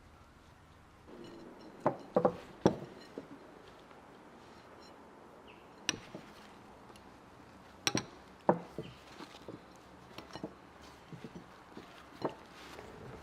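Dishes and utensils knocking and clinking: a string of sharp separate knocks, a few close together about two seconds in, then single ones every second or two, with lighter ticks between.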